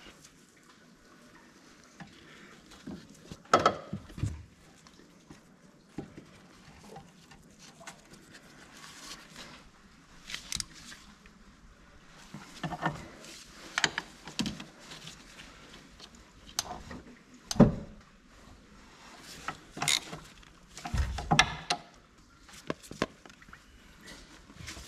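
Metal tools and engine parts clinking and knocking at irregular intervals as engine components are refitted by hand, with the sharpest knocks about 3.5, 17.5 and 21 seconds in.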